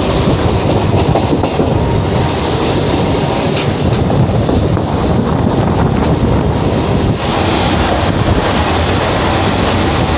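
Mumbai suburban local train (an electric multiple unit) running at speed, heard from on board: a loud, steady rumble and clatter of the wheels on the rails. About seven seconds in the sound turns duller as its hiss drops away, with the view moving from the open doorway into the coach.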